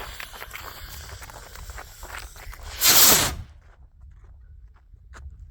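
A homemade rocket engine ignites and launches a homemade fireworks shell: a loud, short whoosh about three seconds in that fades quickly as it climbs. Before it come irregular crackling and rustling sounds.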